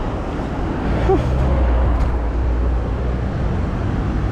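Road traffic passing close by: a motor vehicle's engine hum that grows stronger about a second in, over a steady road rumble, with one short squeak at about the same moment.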